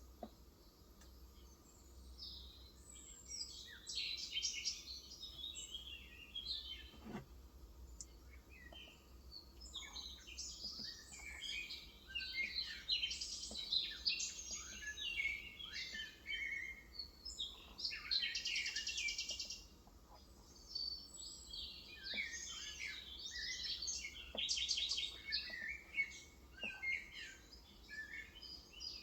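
Small birds chirping and twittering busily, with several fast trills, and a few faint soft clicks in between.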